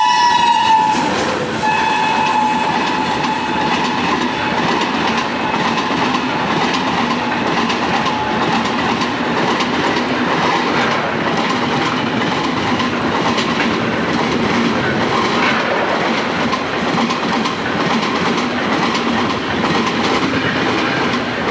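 Indian Railways train horn sounding at the start and again, more weakly, about two seconds in, then the train running along the track with a steady rumble and the regular clatter of wheels over rail joints.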